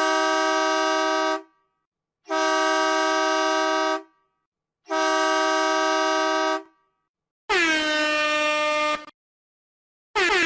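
Horn sound effects: three identical long air-horn blasts sounding a chord of several steady notes, each about a second and a half long with short gaps between. Then a different horn blast whose pitch drops sharply at its start before holding steady, and a second like it begins just before the end.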